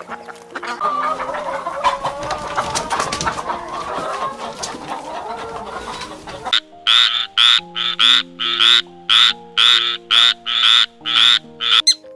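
Animal calls over soft background music: a dense chatter of many calls for about six seconds, then a run of short, evenly spaced high calls, about one and a half a second.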